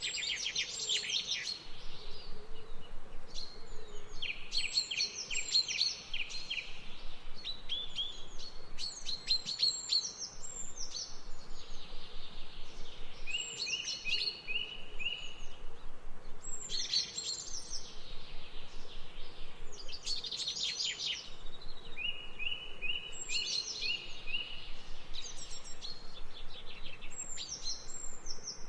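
Songbirds singing: short, quick phrases of sharp high notes and brief runs of repeated notes, about one phrase every three to four seconds, over a faint steady background hiss.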